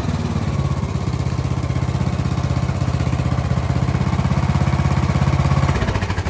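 Craftsman YTS3000 lawn tractor's 21 hp twin-cylinder Briggs & Stratton engine idling steadily. Near the end it is shut off and winds down.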